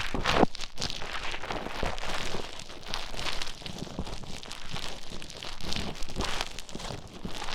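Play foam being mixed and squished with an ear pick close to the microphone: a run of irregular crackling, rubbing strokes.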